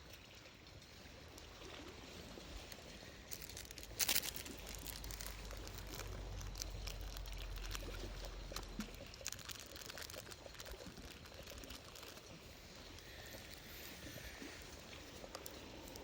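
Liquid being poured, against a run of small crackles and clicks, with one sharp knock about four seconds in.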